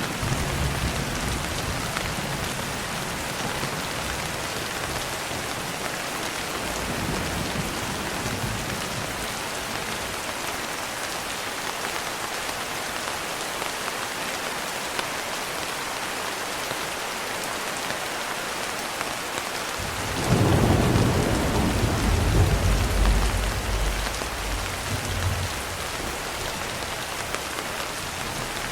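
Steady rain, with a long, loud roll of thunder starting about twenty seconds in and dying away over some six seconds.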